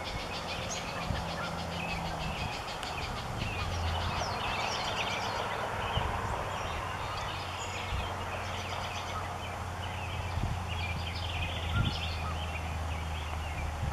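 Many birds chattering and calling in quick, overlapping trills and chips, over a low steady hum.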